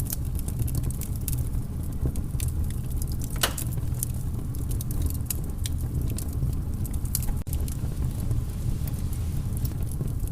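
Wood fire in a fireplace crackling, with frequent small sharp pops, one stronger pop about three and a half seconds in, over a steady low rumble of the flames.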